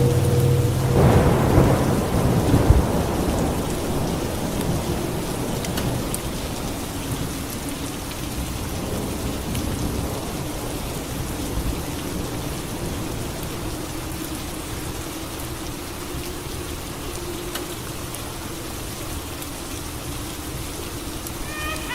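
Steady rain falling, with a clap of thunder about a second in that rumbles and fades away over the next few seconds.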